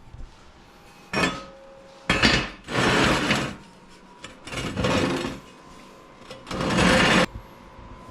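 Five short scraping, rubbing sounds, each under a second, with quiet gaps between them: welded scrap-steel pieces being handled and shifted about.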